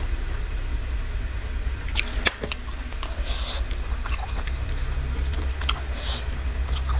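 A person eating with her hands: chewing with scattered short wet clicks, and soft squishing as rice and a green pea and taro-leaf curry are mixed with the fingers, over a steady low hum.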